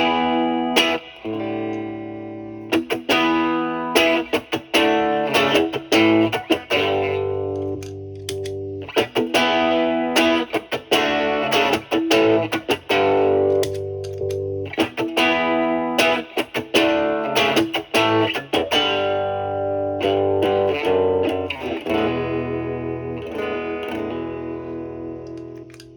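Electric guitar, a Stratocaster with three single-coil pickups, played through an MXR Duke of Tone pedal in its OD mode into a Marshall Valvestate amp's clean channel: strummed chords and picked notes with a light overdrive. A last chord rings out and fades near the end.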